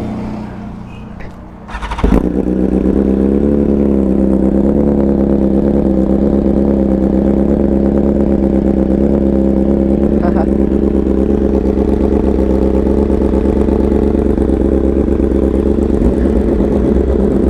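A superbike engine starts about two seconds in, catching sharply, then settles into a steady, even idle.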